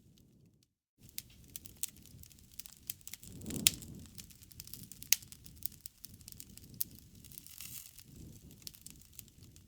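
Wood fire crackling, with many sharp snaps and pops over a low, steady rustle of burning. A louder flurry of pops comes about three and a half seconds in. The sound drops out briefly just before the first second.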